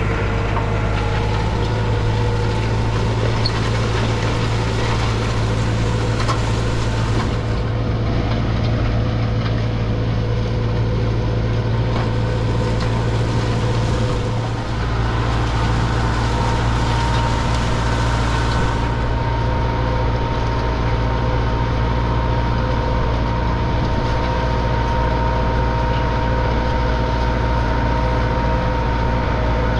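New Holland tractor's diesel engine running steadily under load while pulling a plough, with a short dip in level about halfway through.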